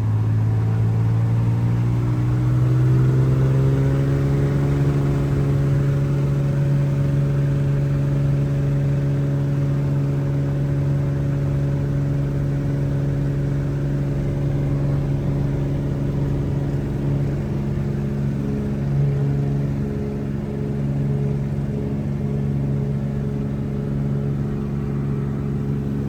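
Cessna 210's six-cylinder piston engine and propeller running, rising in pitch over the first few seconds as power comes up and then holding a steady drone.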